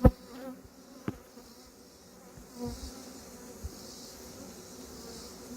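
Honeybees buzzing steadily around an open hive, with a sharp knock at the start and a few fainter knocks later.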